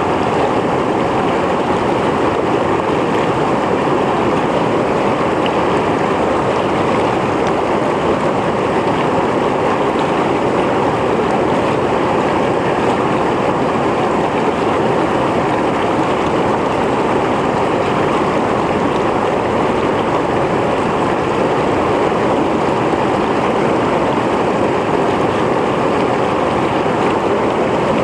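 Mountain stream flowing: a steady rush of water over rocks, with even, unbroken splashing and gurgling.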